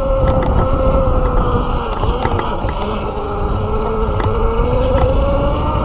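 Electric bike motor whining while riding: its pitch drops about two seconds in and climbs again near the end as speed changes. Heavy wind rumble on the microphone and a few light clicks lie underneath.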